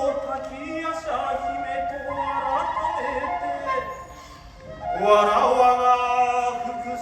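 Kagura music: a drawn-out sung chant with long held notes that bend in pitch, over soft instrumental accompaniment.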